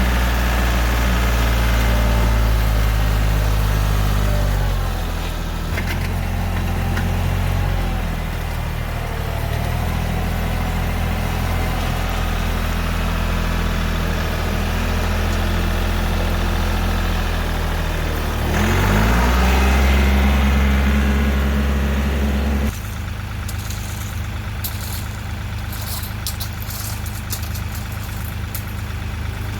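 Kioti CK3510 compact tractor's three-cylinder diesel engine running under work, its pitch dropping about five seconds in and climbing again near nineteen seconds. About twenty-three seconds in the sound cuts suddenly to a quieter, different steady noise.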